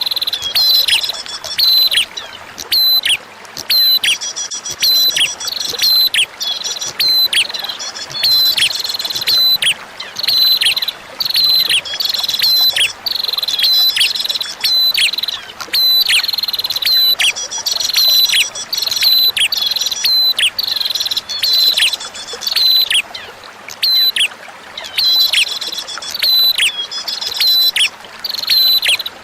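Recorded prinia (prenjak) song: a fast series of sharp chirps that drop steeply in pitch, mixed with short high trills, coming in bouts with brief pauses, over a steady bed of running water.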